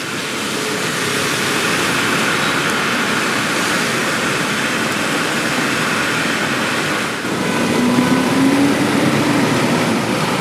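Steady hiss of rain on a city street with traffic and street noise. About eight seconds in a low hum rises and falls briefly.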